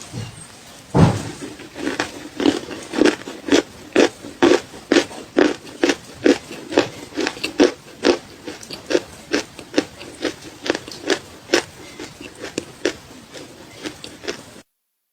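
A person biting into a piece of dry, crunchy edible clay about a second in, then chewing it with steady crunches about two a second that gradually fade; the sound cuts out suddenly just before the end.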